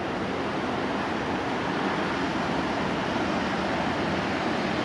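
Steady rushing rumble of a train drawing towards the station behind a WAP-7 electric locomotive, still far off.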